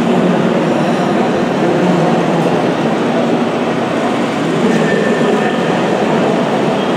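Steady, loud mechanical rumble and whir, with no distinct strokes, from running radio-controlled construction machines.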